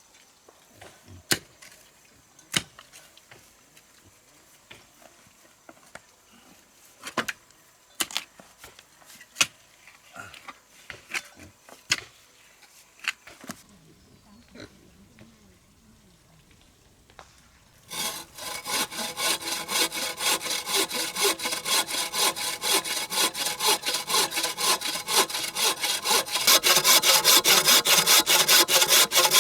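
Scattered sharp knocks and taps on wood, then a saw cutting through wood with quick, even back-and-forth strokes, starting about two thirds of the way in and getting louder near the end.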